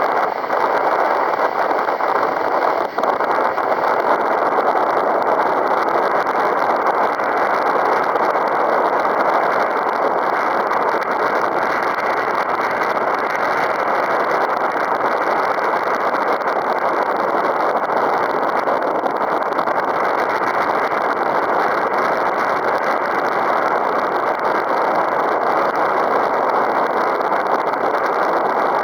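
Strong wind buffeting the microphone: a steady, loud rushing noise with no engine or motor tone in it.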